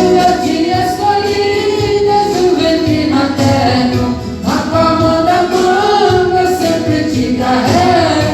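Gospel song with band accompaniment: a voice holds long, wavering notes, and a new phrase comes in with a sharp rise about halfway through.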